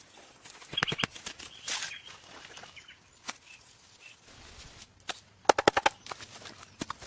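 Irregular sharp knocks and taps, with a quick run of about six knocks a little over halfway through.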